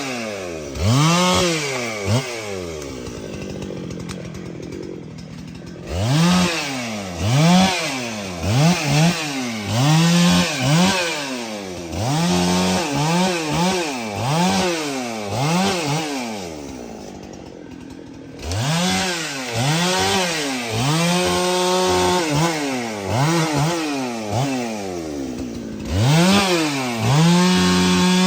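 Chainsaw revving up and falling back over and over, about once a second, while cutting a tree, with two quieter spells where it drops back to idle.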